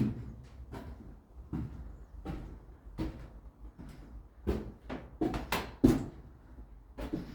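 A series of irregular knocks and thuds, about a dozen, spaced roughly half a second to a second apart, over a low rumble.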